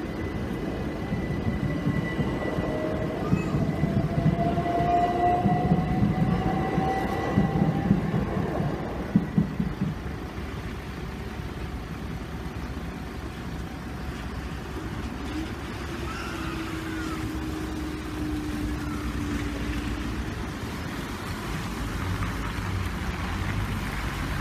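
Electric multiple-unit passenger train running over a level crossing, its wheels clattering over the rail joints, with a motor whine rising in pitch as it goes. After about ten seconds the train noise gives way to steady traffic and street noise, with a lower hum for a few seconds as the crossing barriers rise.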